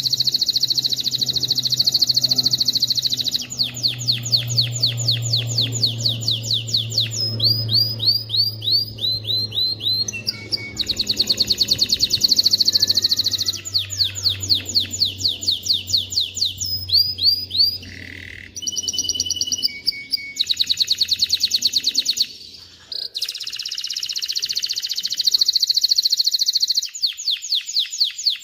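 Male canary singing a continuous song of fast trills and rolls, each run of quickly repeated notes giving way to a new one every couple of seconds.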